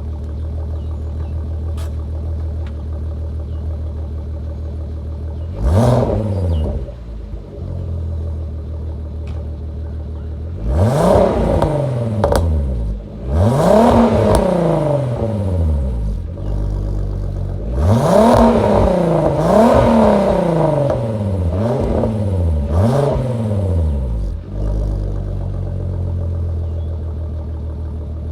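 Turbocharged R32's exhaust: the engine idles steadily and is blipped about seven times, each rev rising and falling quickly. The first comes about six seconds in and the rest come in a run from about ten seconds on, with a few sharp cracks on some of them.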